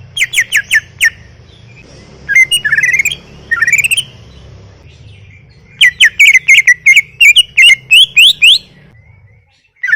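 Cucak ijo (green leafbird) in full song: rapid runs of sharp whistled notes that sweep up and down, in several short phrases and one longer run starting about six seconds in and lasting about three seconds. A faint low hum runs underneath.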